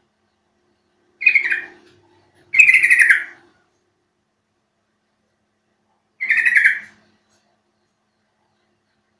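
Sooty-headed bulbul calls: three short calls, the first two close together a second or two in and the third a few seconds later.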